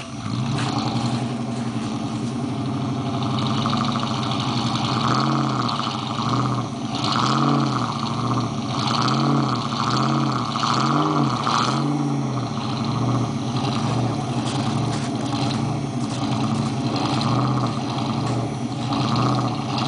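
The 1953 Ford F100's 337 Lincoln flathead V8 running, revved in a string of short throttle blips that rise and fall in pitch through the middle, then settling to a steadier run.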